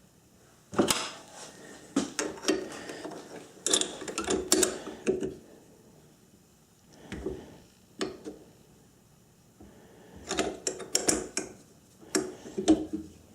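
Metal clicks and clunks from a South Bend lathe's chuck being adjusted with the chuck key while the work is indicated true, coming in several short clusters with pauses between.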